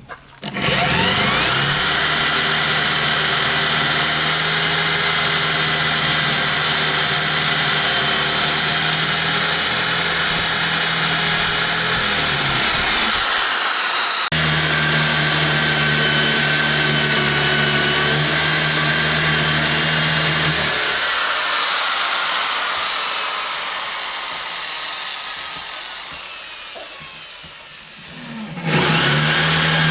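Electric power tool motor switched on with a quick rising whine and running at steady speed. It cuts off about 13 seconds in and starts again a second later. Near 21 seconds it is released and winds down with a long, slowly falling whine, then is switched on again near the end.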